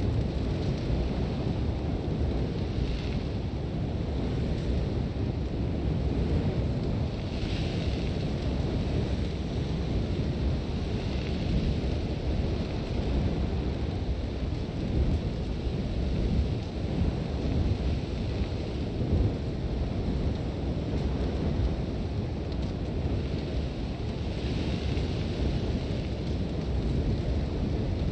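Sandstorm wind: a steady low rumble of buffeting wind, with hissing gusts of blown sand that swell every few seconds.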